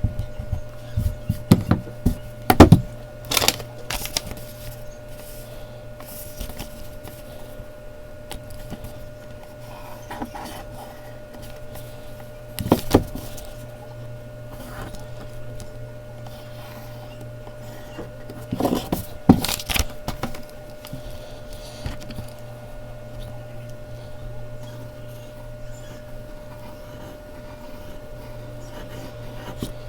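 Mechanical pencil scratching and tapping on Bristol paper in short bursts: a cluster in the first few seconds, one near the middle and another about two-thirds of the way through. A steady low hum lies underneath.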